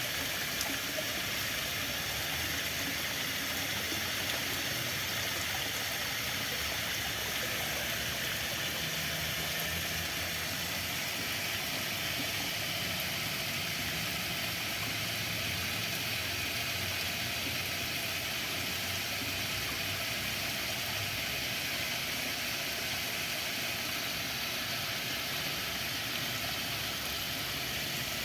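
Steady rushing water, an even hiss without breaks, with a faint low hum underneath in the middle.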